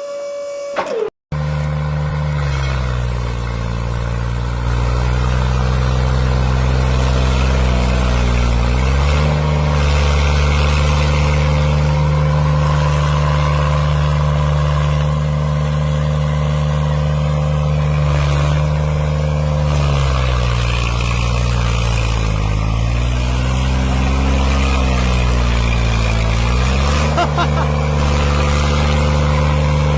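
Tractor engine running steadily, its pitch sagging briefly twice as if under load, after a horn-like tone cuts off about a second in.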